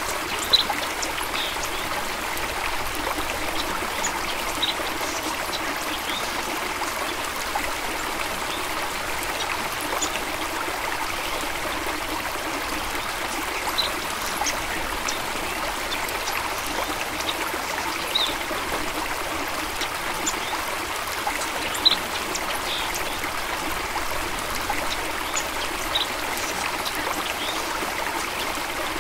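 Small stream flowing steadily over stones, with a continuous trickling rush and scattered brief drips and plinks throughout.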